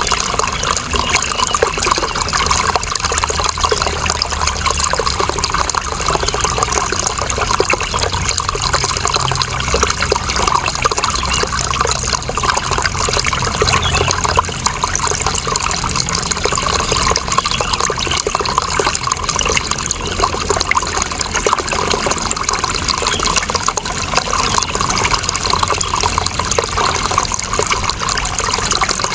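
Running water flowing steadily, an even, continuous rush with no breaks or changes.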